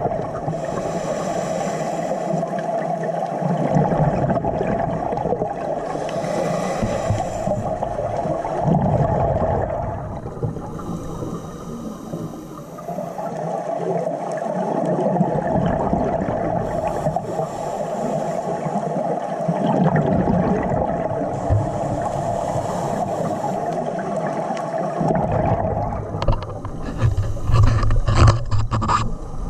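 Underwater sound picked up by a camera in a waterproof housing while swimming: muffled water movement and gurgling over a steady hum, with a burst of sharper splashing near the end.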